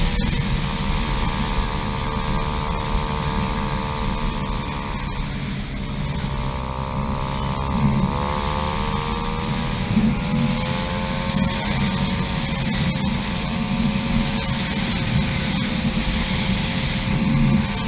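KTM 500 EXC single-cylinder four-stroke dirt bike engine running, its note dipping and climbing as the throttle changes, over a steady low rumbling noise.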